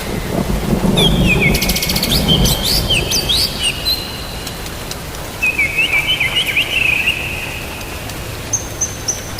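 Songbird chirping in a string of short, quick notes, with a brief fast rattle about two seconds in and higher, thin notes near the end. Under it is a low rumble of rain and thunder that eases after about four seconds.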